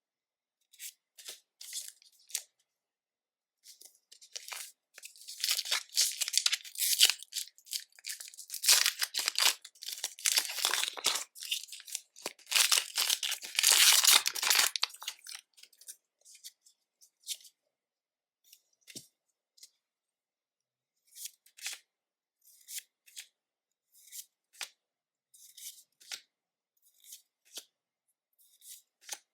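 Pokémon card booster box packaging being torn open and crinkled by hand, a dense stretch of tearing and crinkling for about ten seconds in the middle. Before and after it come scattered light clicks and taps of handling.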